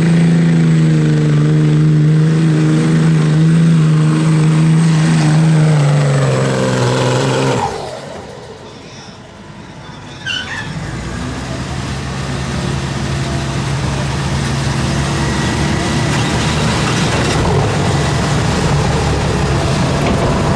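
Pulling engine running loud at high revs, its note sagging slightly before cutting off abruptly about eight seconds in. After a short lull and a sharp click, another pulling engine runs steadily, growing slowly louder.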